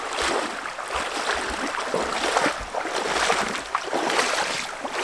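Water of a shallow stream rushing and sloshing, swelling and easing in irregular surges.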